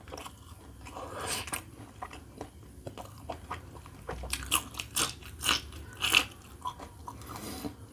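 Close-up biting and chewing of raw green chillies, with a run of sharp crunches that is loudest from about four to six seconds in.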